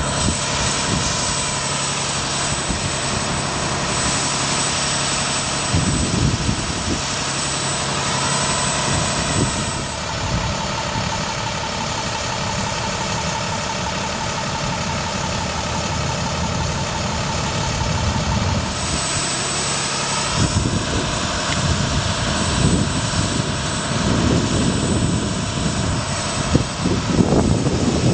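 Diesel engine of a 2008 International 4300 bucket truck running steadily at idle. An added steady whine joins for about eight seconds in the middle.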